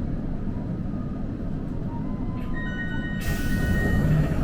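Inside a tram car standing at a stop: a steady low rumble of the car's equipment. About halfway through a steady electronic tone sounds, and about three seconds in a hiss of air starts and cuts off sharply.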